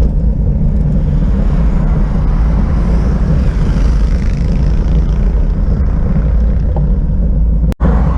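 Steady, loud wind rush and rumble on the microphone of a camera on a moving bicycle, mixed with tyre and road noise. The sound cuts out for an instant near the end.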